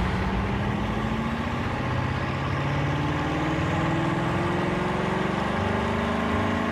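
Bugatti Chiron's quad-turbocharged W16 engine running on a dynamometer test bench, its note rising slowly and steadily.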